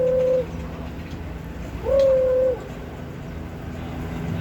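Two long, steady hooting whistle notes on the same pitch, a few seconds apart. The first fades out about half a second in, and the second is shorter and ends a little past the middle. A faint low hum runs underneath.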